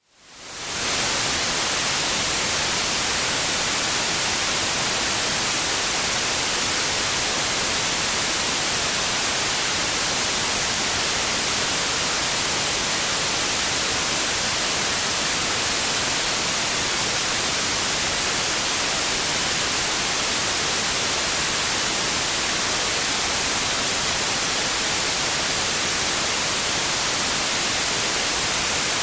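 Steady white noise, an even hiss strongest in the highs, fading back in from a brief dropout in the first second.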